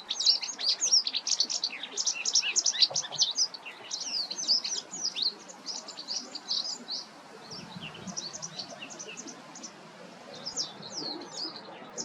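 White wagtail twittering: a fast run of short, high chirps, dense for the first five seconds, thinning out and pausing in the middle, then starting again briefly near the end.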